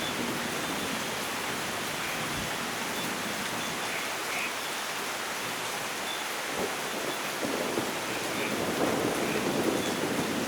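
Steady rain falling in a storm, an even hiss with scattered drips, swelling a little louder near the end.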